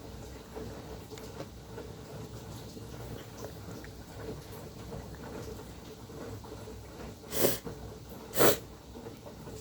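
Sharp washing machine running with a steady low hum, interrupted near the end by two short, loud bursts of noise about a second apart.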